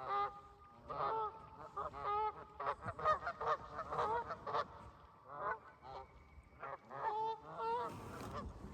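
A flock of geese honking, many short calls overlapping one after another.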